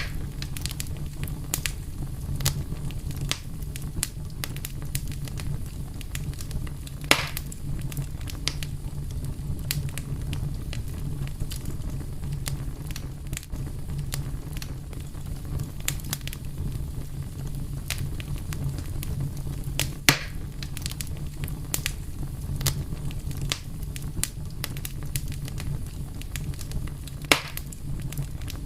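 Fire crackling: frequent small crackles over a steady low rumble, with three louder pops spread through.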